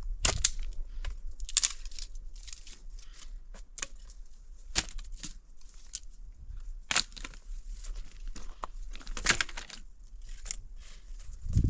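Irregular rustling and crinkling, a run of short scraping noises at uneven intervals over a low steady hum.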